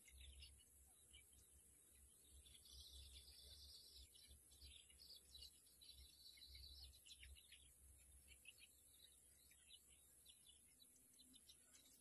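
Faint bird chirps and short trills, scattered throughout, with two longer trilling passages near the middle, over a steady high-pitched hiss.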